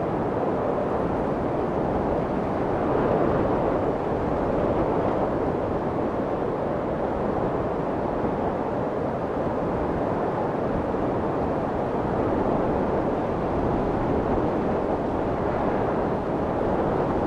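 Steady white noise of the soothing kind played for babies, a muffled, even rush with most of its weight in the low and middle range and slight slow swells in loudness.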